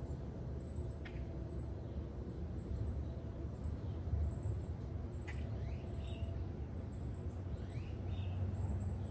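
Outdoor ambience: a low steady rumble, with a bird calling now and then in short rising whistles, each followed by a brief higher note, a few times, and faint high chirping.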